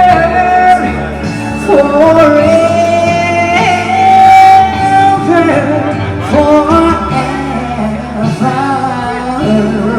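Male singer performing a soul love ballad live over a backing accompaniment, holding a long note that ends about a second in, then singing on with notes that slide up and down in pitch.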